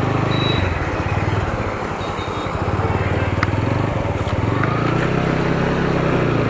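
Single-cylinder motorcycle engine running under way, with wind rushing over the microphone; the engine note changes and steadies about four and a half seconds in.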